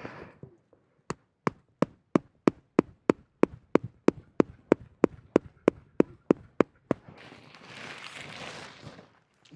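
A hammer striking a tent stake again and again, about nineteen sharp, evenly spaced blows at roughly three a second, driving the stake into frozen ground. After that come a couple of seconds of rustling noise.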